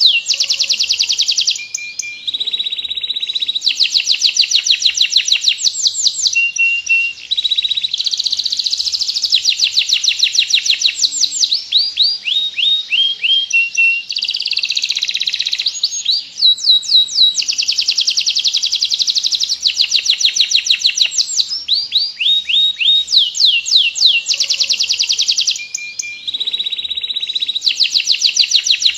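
Domestic canary singing continuously in long rolls: very fast, high trills of rapidly repeated notes, moving from one trill to the next every second or two with hardly a break.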